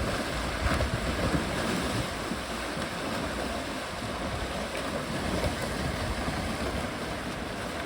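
Steady rush of water and wind, with wind buffeting the microphone as a low rumble.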